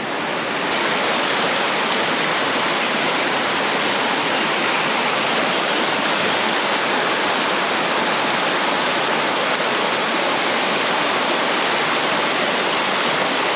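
Rushing water of a small mountain stream running over rocks: a steady, loud wash that steps up a little under a second in and then holds even.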